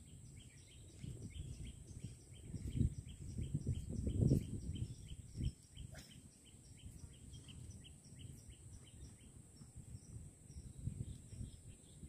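A bird calling in a rapid, even series of short high chirps, about four a second, over a low outdoor rumble that swells twice, around three and four seconds in.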